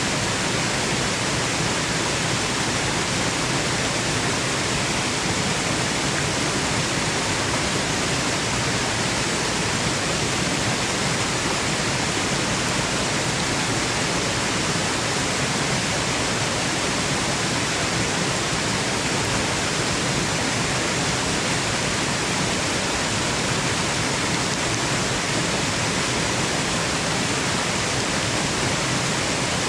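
Waterfall rushing in a steady, unbroken roar of white noise, even across the whole range with no changes or separate splashes.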